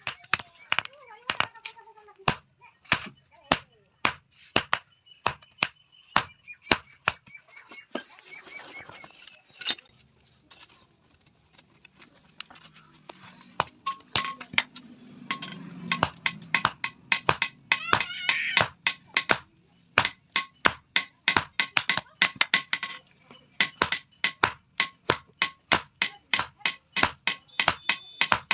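Hammer striking steel on an anvil in a long series of ringing blows, about two a second at first, pausing briefly about ten seconds in, then quickening to about three or four blows a second in the second half: hand forging of a steel try square.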